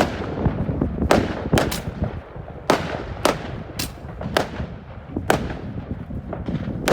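New Year fireworks going off: about nine sharp bangs at irregular intervals over a steady low rumble of more fireworks.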